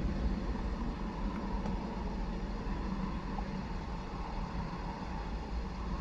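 Steady low rumble of the Ford Windstar's 3.8-litre V6 engine idling.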